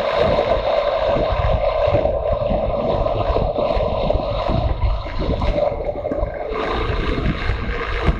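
Motorcycle engine running at a steady cruising speed, its drone held under a gusty rumble of wind buffeting the microphone.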